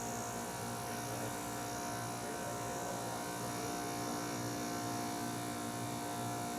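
Running refrigeration system: a steady mechanical hum and buzz with several held tones, unchanging in level.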